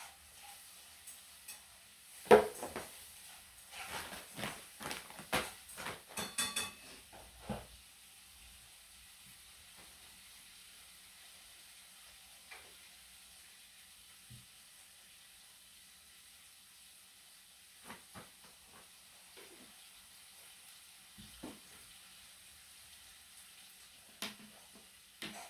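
Small hard objects being handled: a quick run of clicks and knocks, the loudest about two seconds in. After that comes a faint steady hiss with a few scattered taps.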